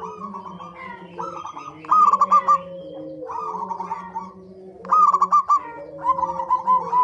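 Zebra doves (perkutut) calling: phrases of quick, rolling cooing notes, loud about two seconds in and again about five seconds in, with a softer run of notes near the end. Lower drawn-out tones run underneath.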